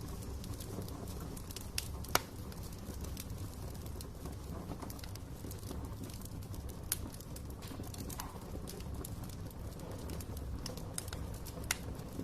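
Wood fire crackling in a fireplace: a steady low rumble of burning logs with scattered sharp pops and snaps, the loudest about two seconds in.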